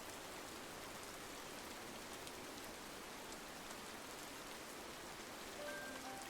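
Steady rain on window glass: an even hiss with scattered light drop ticks. A few soft held musical notes come in near the end.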